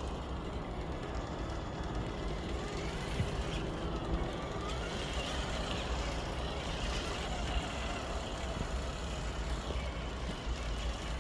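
Steady rumble of highway traffic, an even wash of road noise with no single vehicle standing out.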